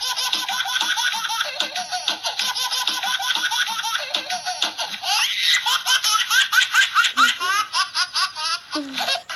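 A baby laughing in quick, repeated giggles over background music. From about five seconds in, the laughs come faster and louder.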